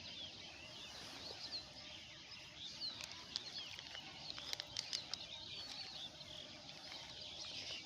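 Many small birds chirping together, short high chirps overlapping continuously, with a few sharp clicks around the middle.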